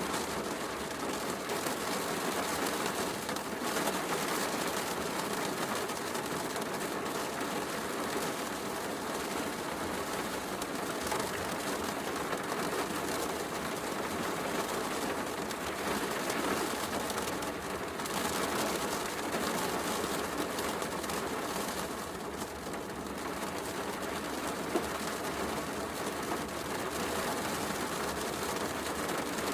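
Steady heavy rain with a fireplace crackling, and one sharper pop from the fire late on.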